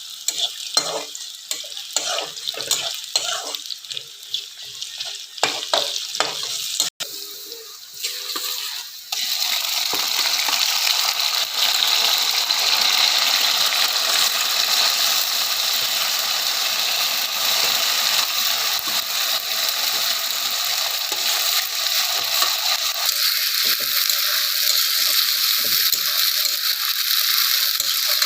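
Irregular knocks and scrapes of a utensil stirring in a cooking pan, then, about nine seconds in, a loud, steady sizzle of food frying in hot oil.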